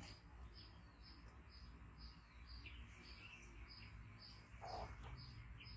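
Faint, steady series of short high falling chirps, about four a second, from a small bird calling, with one brief sound a little louder about four and a half seconds in.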